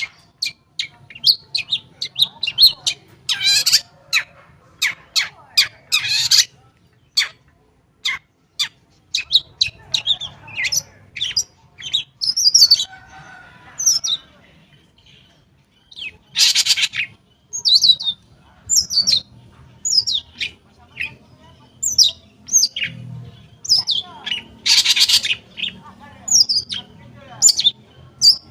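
Long-tailed shrike (cendet) singing: a fast, varied run of chirps, trills and whistles, broken every few seconds by loud, harsh rasping notes.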